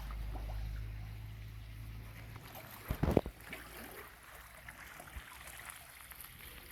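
Low steady hum of a fish pond's filter pump with water trickling; the hum fades after about two and a half seconds, and a couple of short knocks come about three seconds in.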